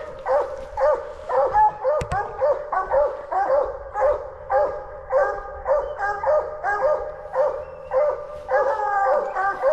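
Coonhounds barking steadily at a treed raccoon, about two barks a second in an unbroken rhythm. There is a single sharp click about two seconds in.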